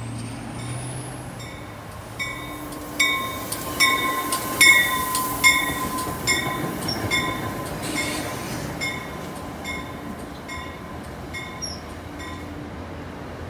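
A stainless-steel commuter train rolls slowly past along the platform, its wheels giving a steady squeal that is loudest in the middle. Over it a grade-crossing bell dings about once every 0.8 seconds, loudest a few seconds in and fading toward the end.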